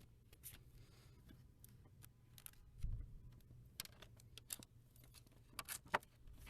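Faint, irregular light clicks and scratches of hand work, with a soft thump about three seconds in.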